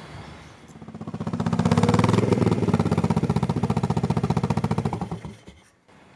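Custom Yamaha SR 500's single-cylinder four-stroke engine as the motorcycle rides past, a rapid even exhaust beat. It swells over about a second, holds loud for a few seconds, then fades away near the end.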